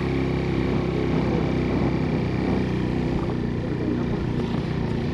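Suzuki GN125's single-cylinder four-stroke engine running steadily under load as the motorcycle is ridden, starting abruptly. The rider describes the engine at this stage of the climb as sounding very bad and strained.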